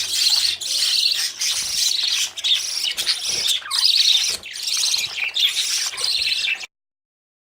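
Budgerigars, fledglings and parents, chirping and chattering in a dense, continuous stream of high-pitched calls that cuts off suddenly near the end.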